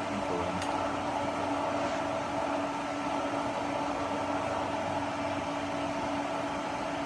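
Steady machine hum with fan noise, holding one even drone throughout.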